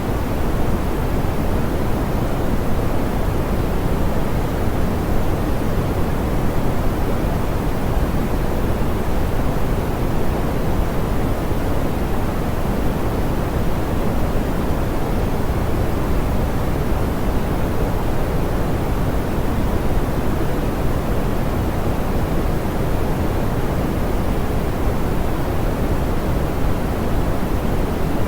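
Steady, smoothed pink noise: an even hiss weighted toward the low end, with no change over time.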